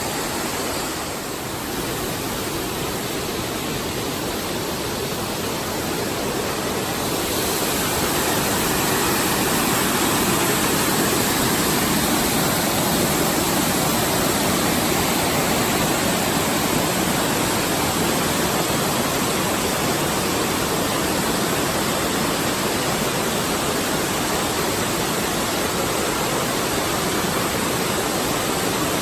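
Steady rushing of falling or flowing water, a waterfall or fast creek, a continuous hiss that grows a little louder about eight seconds in.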